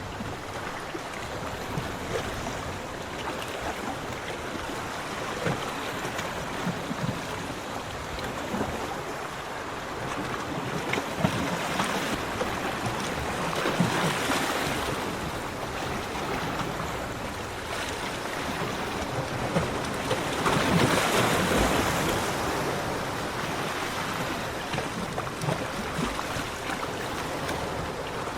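Ocean waves washing onto a beach, a steady rush of surf with two bigger waves breaking and surging louder, about halfway through and again about three quarters of the way in.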